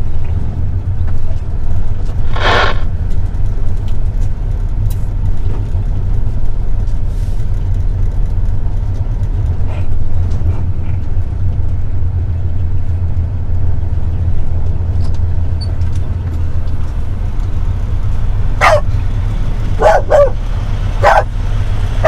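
Semi-truck running, heard from inside the cab as a steady low drone of engine and road noise. A dog barks about four times near the end.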